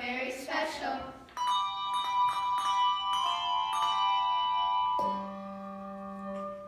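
A run of struck bell notes, each starting sharply and ringing on so that they overlap, with a lower bell note entering about five seconds in and dying away. Voices are heard briefly at the start.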